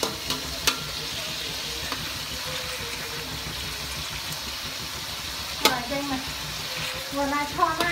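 Beef and a whole fish frying in hot oil in a steel wok: a steady sizzle, with the spatula clicking against the wok a couple of times.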